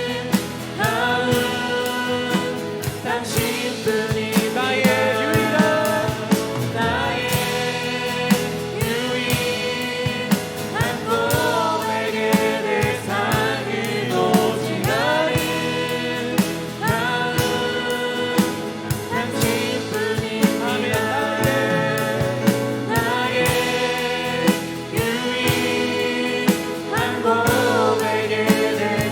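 Christian worship song: voices singing over instrumental accompaniment with a steady beat.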